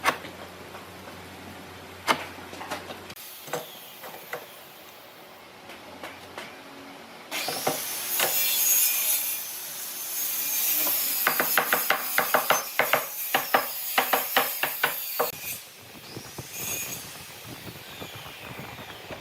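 Wood being worked by hand: a few sharp knocks, then from about seven seconds in a long stretch of scraping on wood. This turns into fast repeated strokes, about four or five a second, and stops about four seconds before the end.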